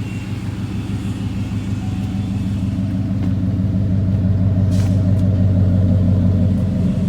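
2007 Chevrolet Avalanche's V8 engine idling steadily after being started, growing a little louder about halfway through.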